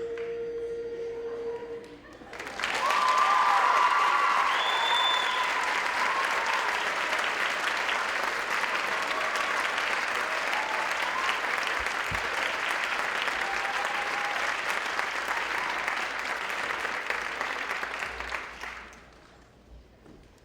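Concert audience applauding with some cheering, starting about two seconds in as the last held chord of the music ends, and dying away near the end.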